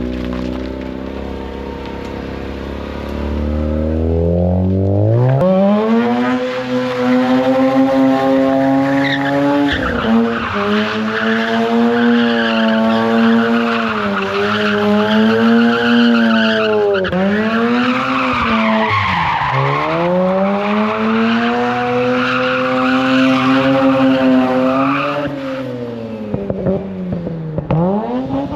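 Mazda RX8's Renesis two-rotor rotary engine revving up sharply about five seconds in and held at high revs, wavering and dipping several times, while the Nitto tyres squeal in a long burnout. The revs and the squeal fall away a few seconds before the end.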